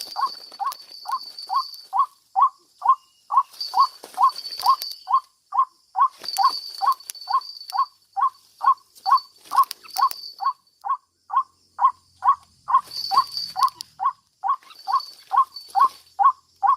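White-breasted waterhen calling: a long, steady series of short, evenly spaced notes, a little over two a second.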